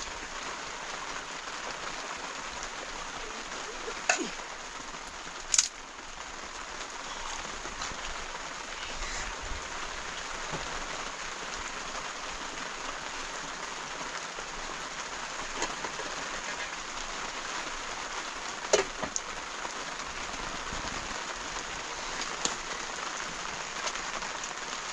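Steady rain falling, with a few sharp knocks standing out, the loudest about five and a half seconds in.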